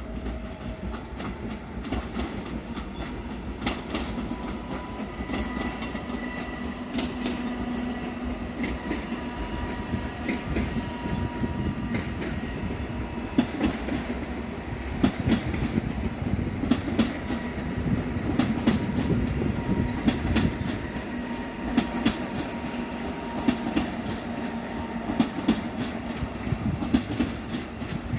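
Electric passenger trains running through a railway station: wheels clacking over rail joints and points, under a steady hum. The clacks grow more frequent and louder from about halfway in.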